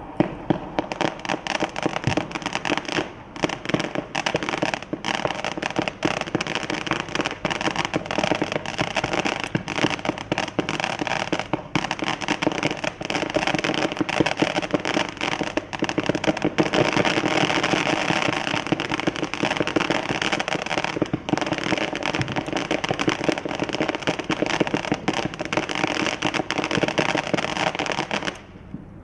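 A 145-shot zipper fireworks cake firing in rapid succession: a dense, continuous stream of shots and crackle that stops shortly before the end.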